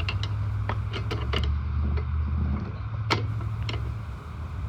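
Scattered clicks and knocks of hand tools and mower parts being handled while the top cover is taken off the mower, over a steady low hum.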